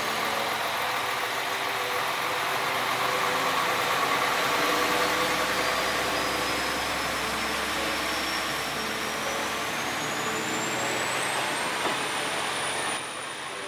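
Matsuura Railway diesel railcar running at the station, a steady engine sound with a thin high whine that rises in pitch over several seconds and then holds steady.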